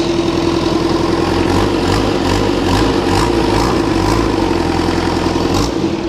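Volkswagen diesel engine, newly fitted in a Suzuki Samurai, running at idle on its first start. Its low note wavers for a few seconds, starting about a second and a half in.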